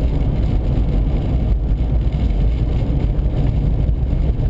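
Steady low rumble of a car driving at highway speed, heard inside the cabin: road and wind noise on a slushy winter highway.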